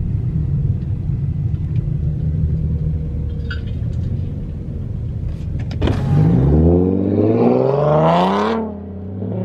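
Car engine running with a low, steady rumble, then revving up about six seconds in, its pitch climbing for a couple of seconds before the throttle is let off near the end.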